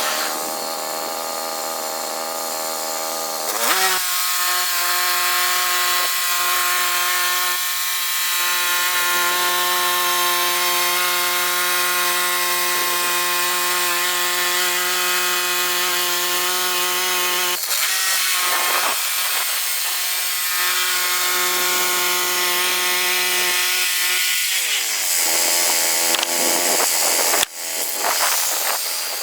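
Chainsaw running at high revs while cutting through a log. Its pitch drops a few seconds in as the chain bites into the wood, holds steady under load, and rises again near the end as the saw comes free.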